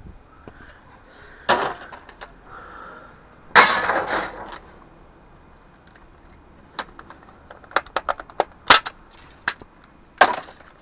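Small parts of a dismantled CD drive and its circuit board being handled and pried off: two brief scraping, rattling bursts, then a quick run of sharp clicks and taps.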